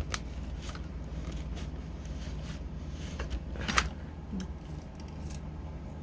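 Scattered light clicks and scrapes of craft supplies being handled over a steady low hum, with one louder click about four seconds in.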